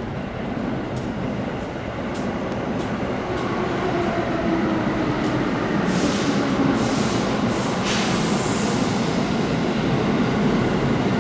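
Keihan 2400 series electric train running through the station, its rumble slowly growing louder as it approaches, with faint motor tones, scattered clicks, and a brief burst of high hiss about two-thirds of the way in.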